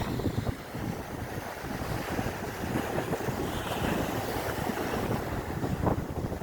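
Sea waves washing with wind buffeting the microphone in low gusty rumbles, the wash of the water swelling through the middle.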